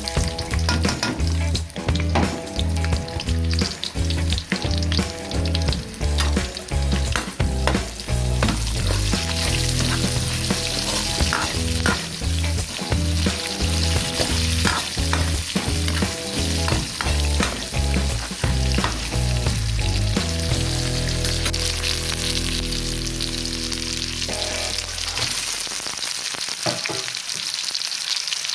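Food frying in a pan: a steady sizzle with stirring. A background music track with a steady beat plays over it and stops near the end.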